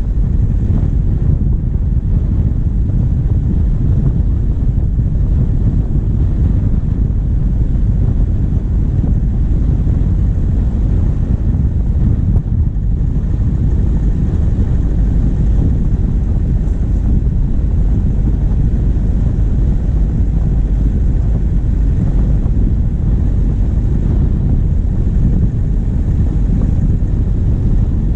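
Diesel vehicle driving, heard through a bonnet-mounted camera: steady low engine noise mixed with wind buffeting the microphone.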